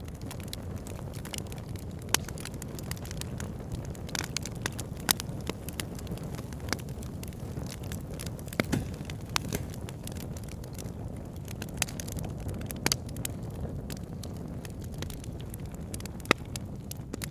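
Fire burning in a fireplace: a steady low rumble of flames with frequent sharp crackles and pops, a few of them louder snaps scattered through.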